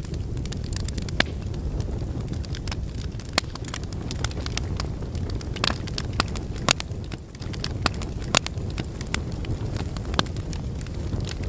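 Log fire burning in a fireplace: a steady low rumble of flames with irregular sharp crackles and pops from the wood, a few of them louder than the rest.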